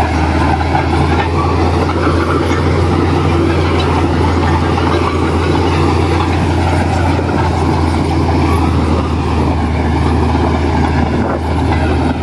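Diesel engine of a heavy earthmoving machine running steadily under a continuous deep hum, with no pauses or revs.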